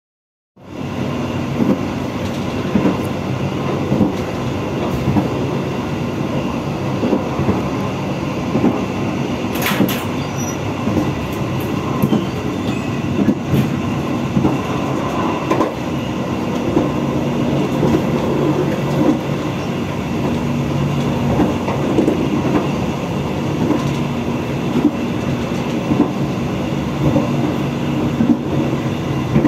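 Passenger train running along the track, heard from the rear end of its last carriage: a steady rumble of wheels on rail with frequent clicks and knocks, and one brief sharp high squeak about ten seconds in.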